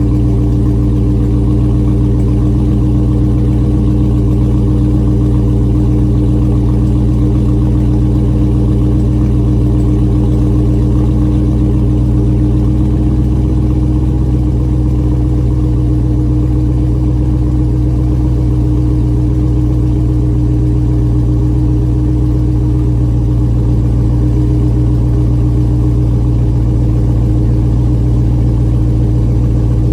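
2020 Dodge Charger Widebody's V8 idling steadily during its cold-start warm-up, its pitch unchanging.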